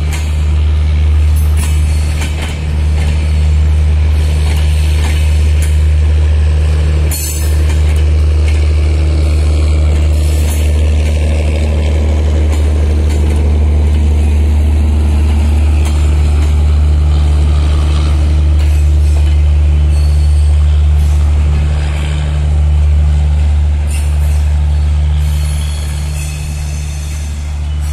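Passenger coaches of a departing intercity train rolling past slowly. A loud, steady low hum sits under the noise of the running gear, with occasional sharp clicks, one clear one about seven seconds in.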